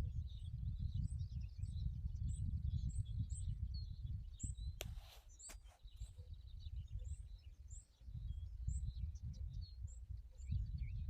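Birds chirping outdoors: short, high chirps repeated about every half second over a heavy, uneven low rumble of wind on the microphone. Two sharp clicks with a brief hiss come a little before the middle.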